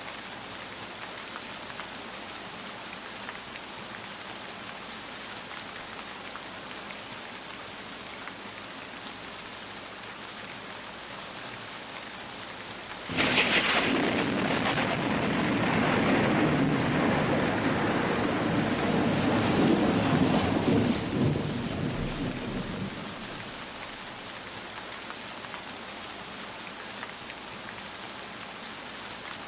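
Steady rain falling, with a clap of thunder about halfway through: it starts with a sudden sharp crack and rolls on as rumbling for about ten seconds before fading back under the rain.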